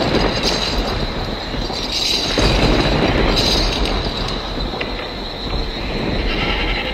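Train running along the track: a steady rumble and clatter of wheels on rails, with a thin high whine held above it.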